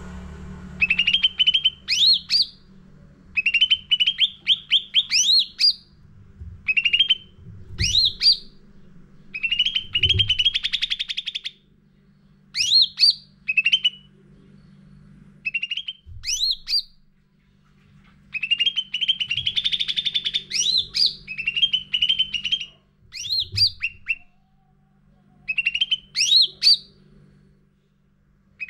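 A cucak ranting singing hard and continuously: phrases of one to two seconds made of quick chirps running into sweeping, rising whistles, repeated after short pauses. A faint steady low hum runs underneath.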